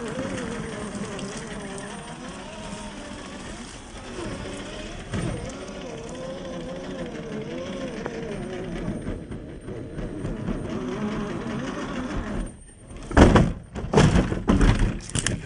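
RC crawler's 45T 540 brushed motor and gear train whining, the pitch wandering up and down with the throttle. Near the end there are a few loud, short rough bursts.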